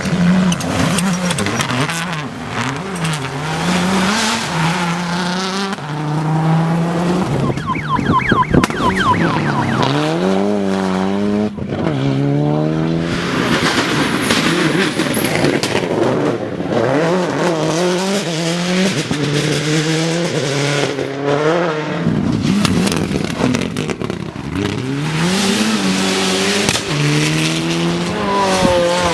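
Rally cars' engines at racing speed, revving hard and shifting gear: the pitch climbs, drops back at each shift and climbs again over and over, with a rush of noise as the cars go past.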